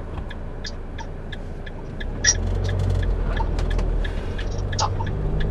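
Motorhome driving, heard from the cab: a steady low engine and road rumble that grows louder about two seconds in, with a light regular ticking about three times a second.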